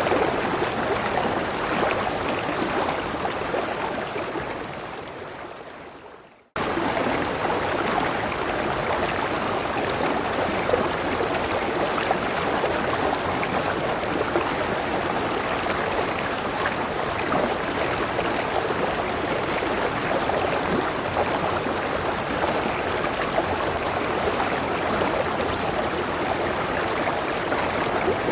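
Rushing river water tumbling over a small waterfall, a steady even rush. A few seconds in it fades away to a moment of silence, then cuts back in suddenly at full level and runs on steadily.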